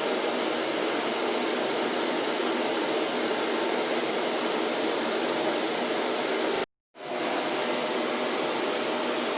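Vacuum cleaner running steadily, an even rushing noise. About two-thirds of the way through it cuts out to silence for a fraction of a second, then comes back in over a moment.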